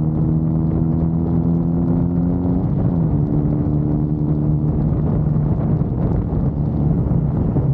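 Triumph Bonneville's parallel-twin engine running under way, its note climbing slightly, then dropping sharply about three seconds in and holding steady at a lower pitch.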